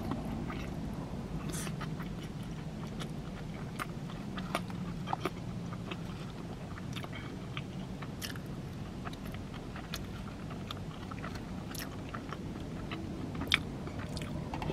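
Close-up chewing and biting of a mouthful of cheese-topped Animal Style fries, with many scattered small clicks and mouth smacks. A steady low hum runs underneath, and one click near the end is louder than the rest.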